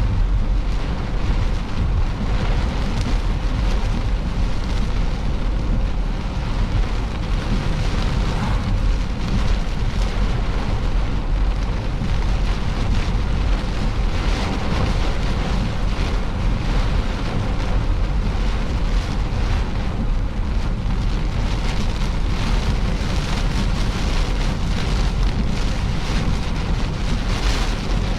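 Strong storm wind rushing and buffeting against the microphone, a steady, loud rumbling rush with no letup.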